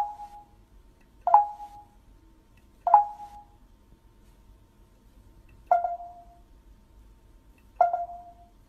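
Five short ringing dings, each a sharp strike followed by a brief tone that dies away within about half a second, coming at uneven intervals.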